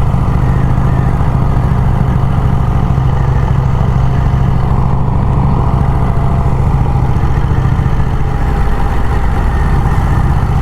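1951 Vincent Rapide's 998 cc V-twin engine running steadily at cruising speed on the road, with the rush of road and wind noise over it.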